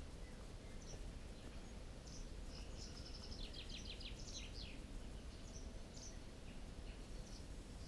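Faint bird calls: scattered high chirps, with a rapid run of short high notes near the middle, over a low steady background rumble.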